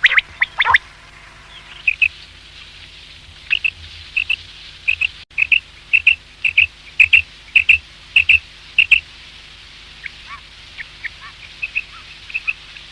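Common quail calling: short, sharp chirps repeated in a series. A few loud falling calls come in the first second, then a run of about two chirps a second, then fainter, lower notes near the end.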